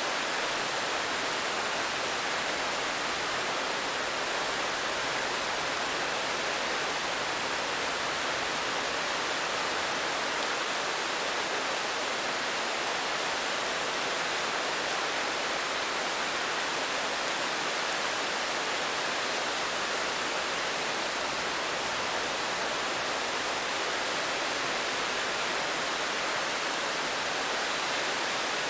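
Steady rain falling, an even hiss with no separate drops or changes.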